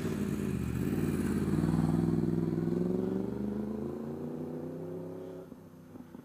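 Motorcycle engine accelerating away. It revs up, then drops in pitch and fades out about five seconds in as it moves off.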